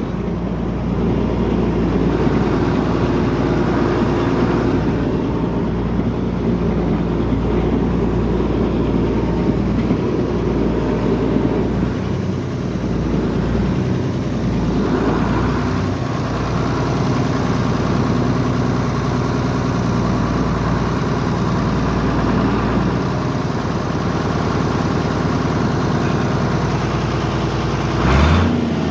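Vintage Farmall tractor's four-cylinder engine running steadily as the tractor is driven at low speed, with a brief rise in pitch and level near the end.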